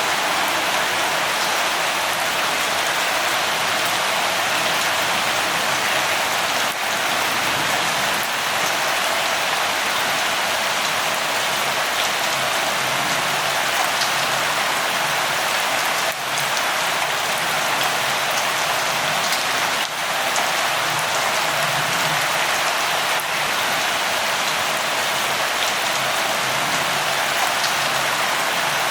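Steady rain falling, an even dense patter with scattered individual drop ticks.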